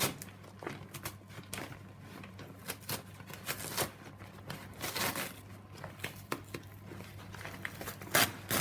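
A full vacuum cleaner dust bag being handled and opened from its end: irregular rustles and crackles, with a louder crackle near the end.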